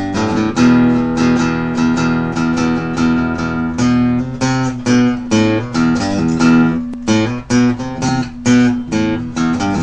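Guitar playing: plucked notes and strummed chords in a steady run.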